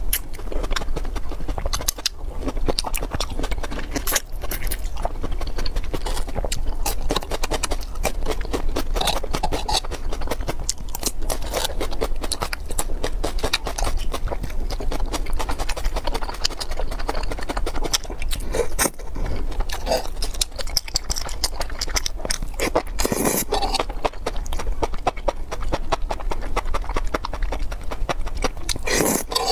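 Close-miked eating: continuous, rapid mouth clicks of chewing and biting crab sticks and enoki mushrooms in chili sauce.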